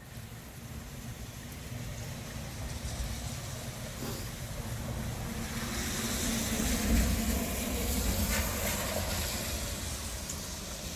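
Tropical-storm wind and rain: a steady rush with a low rumble, swelling to its loudest about seven seconds in and easing off near the end.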